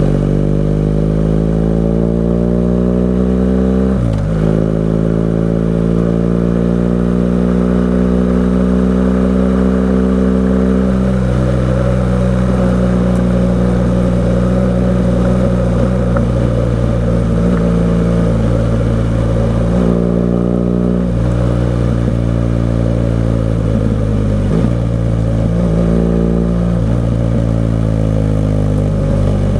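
BMW R 1200 GS Adventure boxer-twin engine through an SC-Project exhaust, ridden through corners. The engine note climbs, then drops sharply at a gear change about four seconds in. It holds steady, changes as the throttle eases at about eleven seconds, then rises and falls through several more shifts and throttle changes in the second half.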